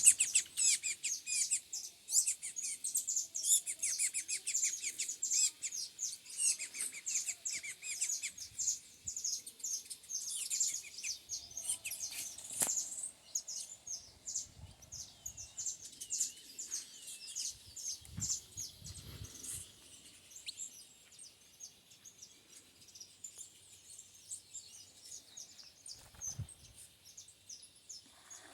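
Small songbirds chirping: a dense run of rapid, high-pitched chirps and short calls from several birds, which thins out after about twenty seconds, with a few soft thumps in between.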